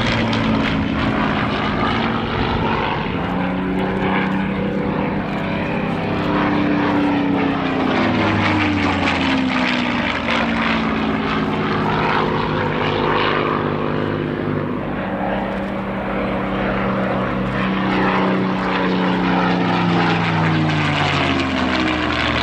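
Supermarine Spitfire's Rolls-Royce V12 piston engine running loudly through low passes, its pitch falling each time the aircraft goes by.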